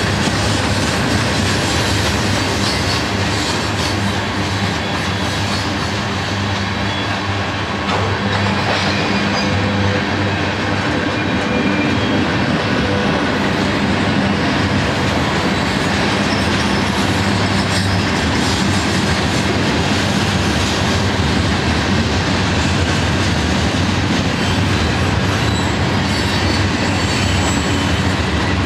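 Mixed freight cars of a manifest train rolling past at close range: a steady rumble and clatter of steel wheels on rail.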